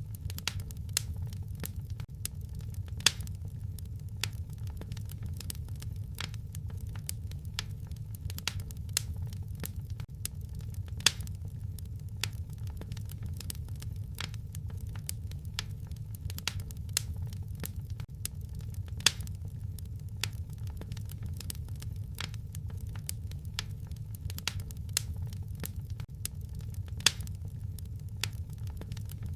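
Wood fire crackling in a fireplace: a continuous scatter of small crackles and sharper pops over a low, steady rumble of the flames, with a louder pop about every eight seconds.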